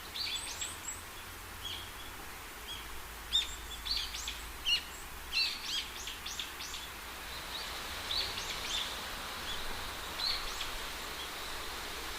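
Small birds chirping in many short, high notes, thickest from about three to seven seconds in and sparser after, over a steady outdoor hiss.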